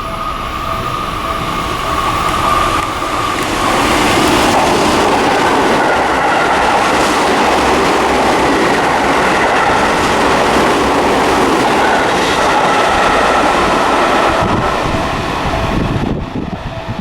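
Seibu Railway electric train passing through a station at speed without stopping. The loud rushing of the train builds over the first few seconds, holds, then falls away near the end.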